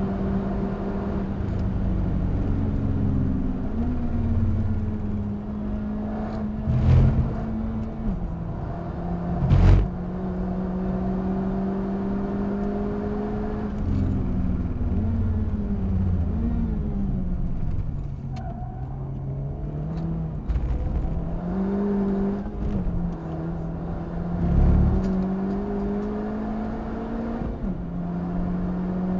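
In-cabin sound of a Honda Civic Type R FK8's turbocharged 2.0-litre four-cylinder engine under track driving, its note holding, dropping and climbing again with lifts and gear changes. A few sharp thumps cut through, about 7 and 10 seconds in and again near 25 seconds.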